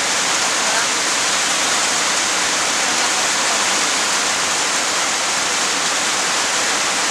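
Heavy rain pouring down, a steady dense hiss with no letup.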